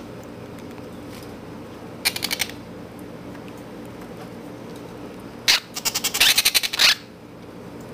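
Baby parrots' rapid, pulsing begging chatter while being syringe-fed formula: a short burst about two seconds in and a longer one from about five and a half to seven seconds.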